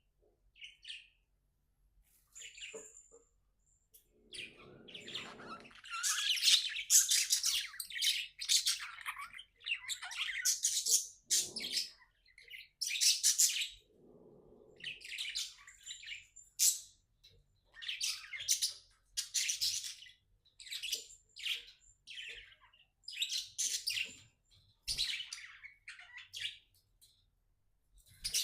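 Budgie chirping in short, quick bursts: a few scattered chirps at first, then a busy run of chirps about once a second from a few seconds in.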